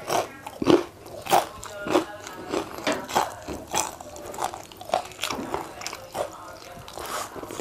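A person chewing fried chicken wing close to a lapel microphone: a steady run of crisp biting and chewing sounds, about two a second.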